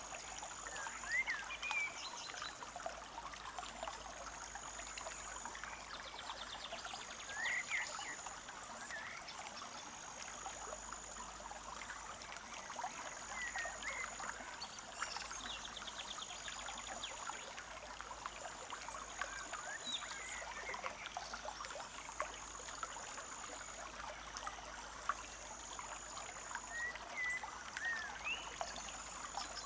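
Forest stream trickling and babbling steadily. Over it, birds give short rising chirps every few seconds, and a high, thin note is held about a second and a half and repeated every three seconds or so.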